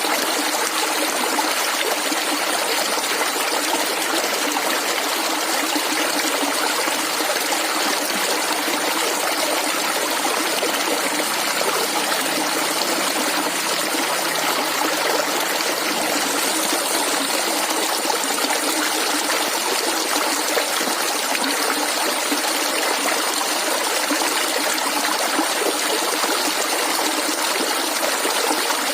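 Shallow stream of clear water running and gurgling, a steady even rush with no breaks.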